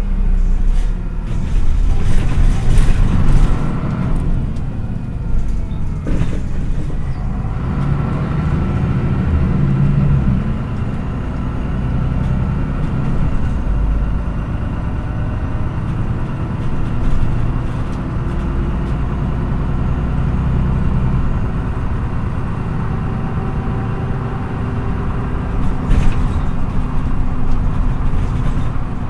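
MAN NÜ 313 bus engine and drivetrain heard from inside the passenger cabin while driving. The engine pitch rises over the first few seconds as the bus accelerates, then runs fairly steadily at cruising speed, with a short burst of noise near the end.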